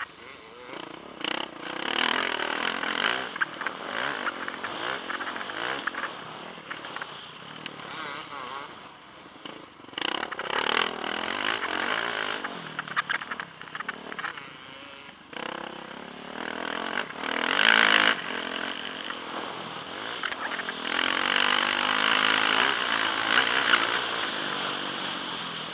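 Motocross bike engine revving up and down repeatedly as it accelerates and backs off, heard from the rider's helmet camera. The engine is loudest in a sharp burst about eighteen seconds in.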